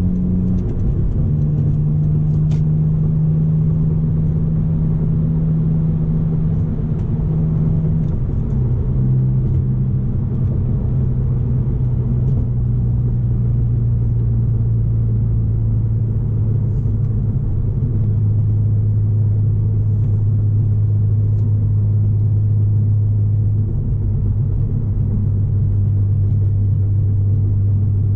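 BMW S54 inline-six engine in an E46 wagon droning at freeway cruise, heard from inside the cabin over steady tyre and road rumble. The engine note holds steady and drops in pitch three times: about a second in, about eight seconds in, and again past the middle.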